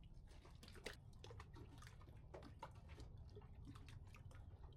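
Near silence: faint, irregular small clicks and ticks over a low steady rumble.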